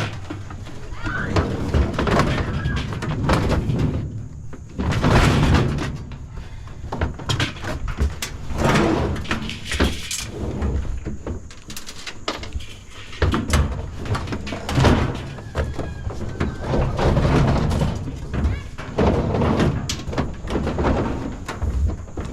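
Scrap metal clanking and thudding as pieces are handled and dropped into a truck bed. The knocks come irregularly, with a few louder crashes.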